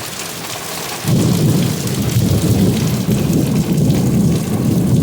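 Torrential rain hissing steadily; about a second in, a thunderclap breaks suddenly and rolls on as a loud, deep rumble of thunder close overhead.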